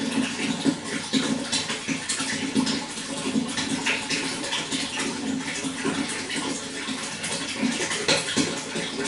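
Running water flowing and splashing steadily, with many small splashes.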